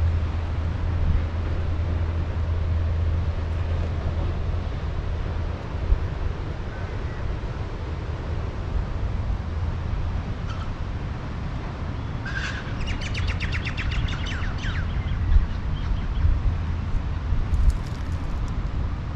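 Steady low outdoor rumble, with a bird giving one fast trill of rapidly repeated high notes for about two seconds, a little past the middle.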